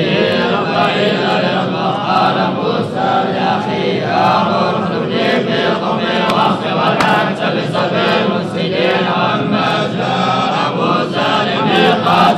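Quranic recitation chanted by several men's voices together, a continuous chanted melody with no pauses.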